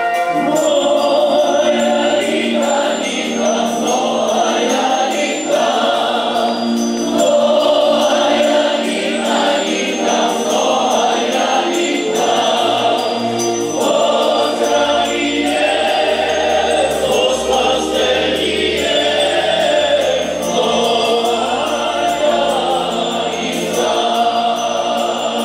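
Music: a choir singing a song with instrumental accompaniment, deep bass notes joining about fifteen seconds in.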